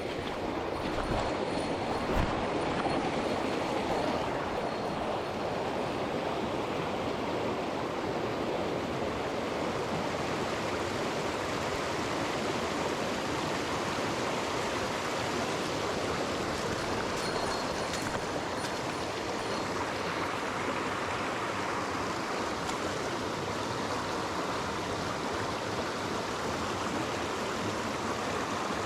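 Mountain stream water rushing steadily over rocks, with a brief low knock about two seconds in.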